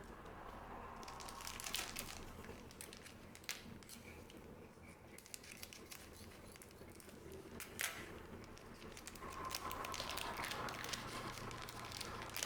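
Trading card booster pack wrappers crinkling and tearing as they are handled and opened, in spells, with a couple of sharp clicks.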